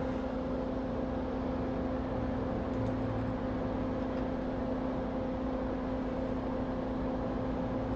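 Steady whir of a bench fan with a constant low hum.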